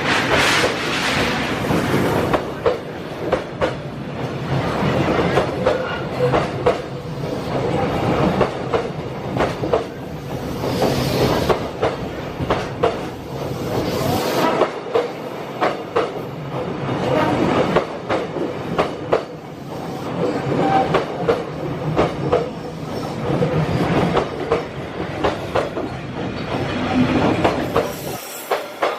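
A long train passing close by at speed: a steady rumble with a rapid clickety-clack of wheels over the rail joints, car after car. The low rumble drops away near the end as the train clears.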